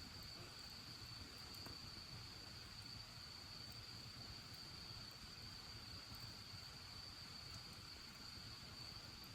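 Faint, steady high-pitched insect trill, with a few faint scattered crackles from the bonfire.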